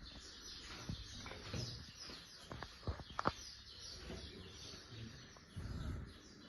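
Small birds chirping repeatedly in short, high, falling notes. A few sharp clicks come about halfway through, and low rumbles swell now and then.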